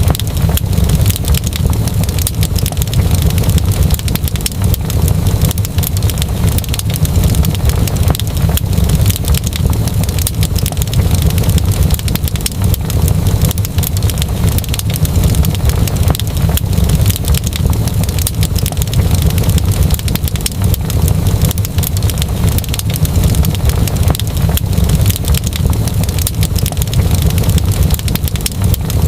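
Wood fire crackling with dense, rapid small pops over a steady low rumble.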